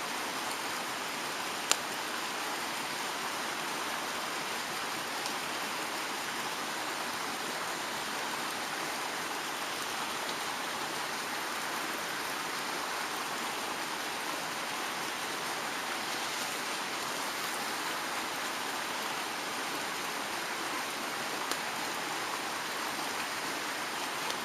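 Mountain stream running steadily, an even rushing hiss of water, with one sharp click about two seconds in.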